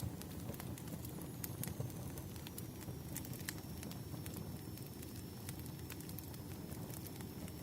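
Wood fire burning: a steady low rumble of flames with irregular sharp crackles and pops, and a faint thin high whistle from about a second and a half in.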